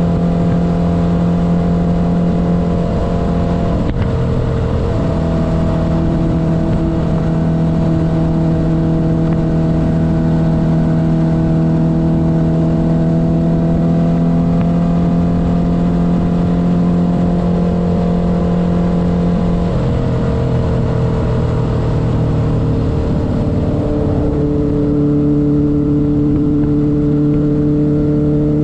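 1972 Honda CB500's air-cooled inline four-cylinder engine running steadily under way. The engine note shifts to a new pitch about four seconds in, and again around twenty and twenty-four seconds in, as the revs change.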